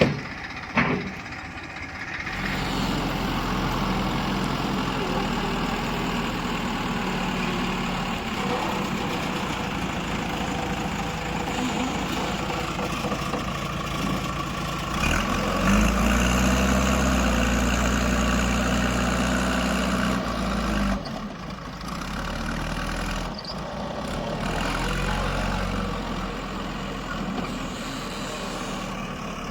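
Heavy diesel engine running steadily, then louder and deeper for about five seconds in the middle before settling back.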